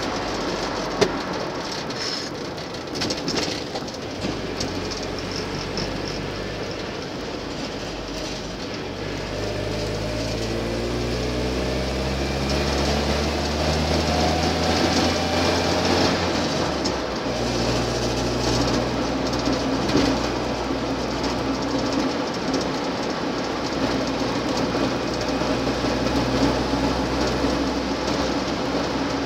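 Land Rover Series II engine and drivetrain heard from inside the cab while driving. The engine note climbs steadily for several seconds, drops sharply about seventeen seconds in, then holds steady, over constant road noise.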